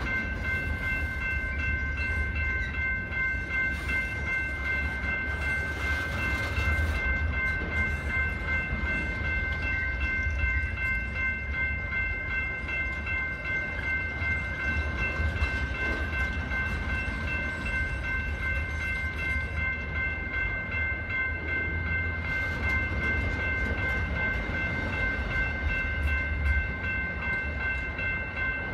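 Amtrak Auto Train autorack car carriers rolling steadily past: a continuous low rumble of wheels on rail, with a steady high ringing tone held over it throughout.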